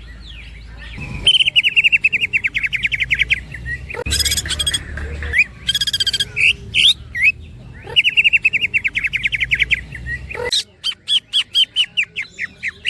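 Green leafbird (cucak ijo) singing: two fast rattling trills of high notes, one near the start and one past the middle, with sharp chirps between them and a slower run of repeated notes near the end.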